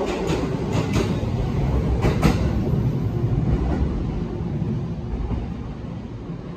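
209 series electric commuter train pulling out: its wheels click-clack over rail joints several times in the first couple of seconds as the last car passes, then its running noise fades as it draws away.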